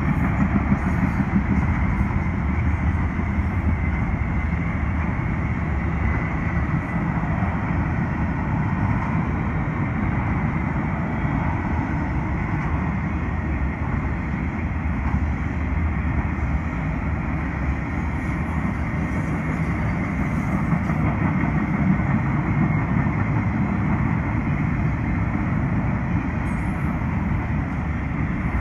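CSX intermodal freight train's container and trailer cars rolling past: a steady, loud rumble of steel wheels on the rails, with a faint steady high tone above it.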